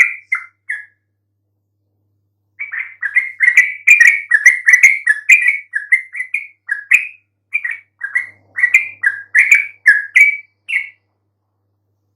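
Yellow-vented bulbul (trucukan) singing: quick, bubbly chattering notes in a short phrase, then, after a pause of about two seconds, a long fast run of song that stops about a second before the end.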